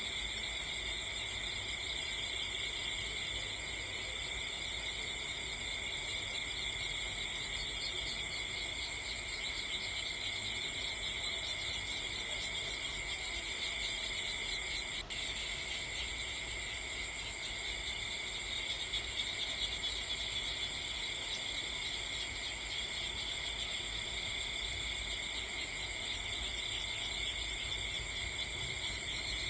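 A steady insect chorus, cricket-like, trilling without pause at several high pitches.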